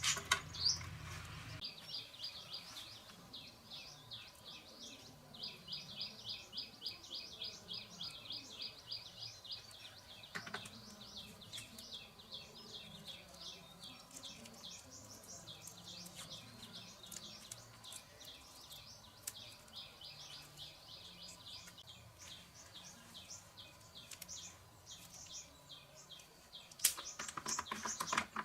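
Small birds chirping in long, quickly repeated series, with a louder burst of calls near the end. A low hum stops about a second and a half in.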